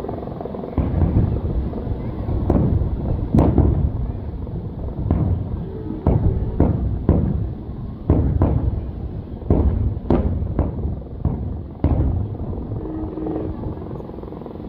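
Fireworks bursting: an irregular string of booms, roughly one or two a second, with a deep rumble between them.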